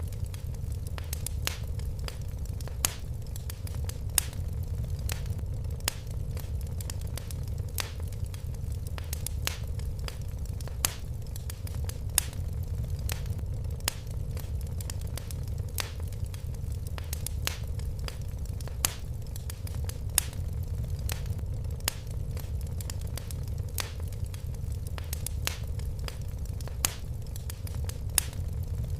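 Fire crackling in a fireplace: frequent sharp pops and snaps, a few louder than the rest, over a steady low rumble.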